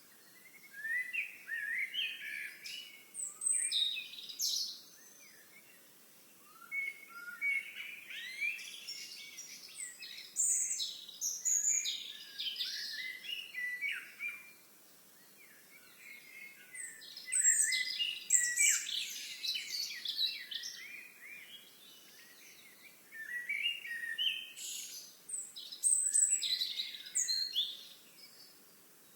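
Songbirds singing: long, jumbled phrases of high chirps and trills, each lasting several seconds, with short pauses between them.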